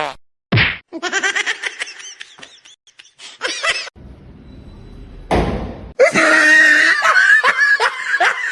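A person laughing, in quick repeated bursts during the last couple of seconds, after a string of short sounds broken by abrupt cuts.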